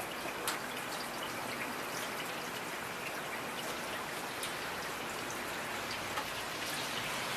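Steady rain with individual drops ticking on a surface against an even hiss.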